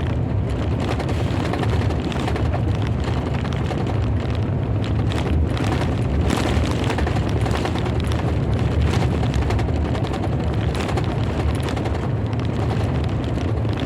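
Thunder rumbling low and steady, a long roll with faint crackles about halfway through.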